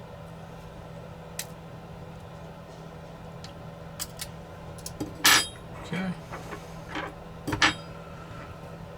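Small metal hand tools clicking and clinking on a workbench during drone disassembly: scattered light clicks, with two louder clinks about five and seven and a half seconds in, over a steady low hum.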